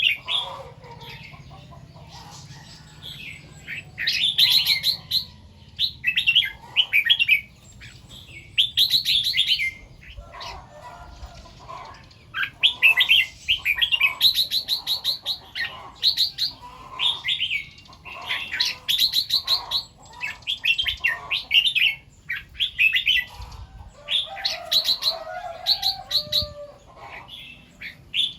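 Red-whiskered bulbul singing: short, bright, warbling phrases repeated in quick bursts, one after another with brief pauses between them.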